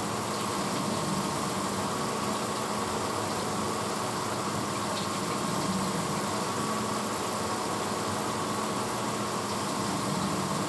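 1986 Hotpoint Potwasher dishwasher running steadily mid-cycle: a constant motor hum under an even rushing noise.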